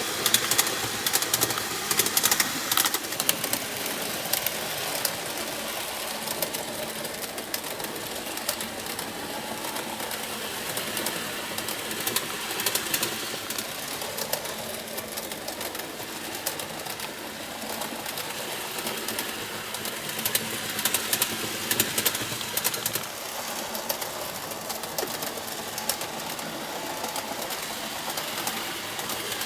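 N gauge model train running on its track: the small motor whirs steadily while the wheels make a fine, rapid clicking over the rail joints, coming in denser runs at times.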